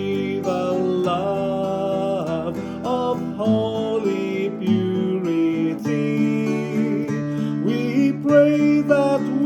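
Music: an acoustic guitar playing a hymn tune.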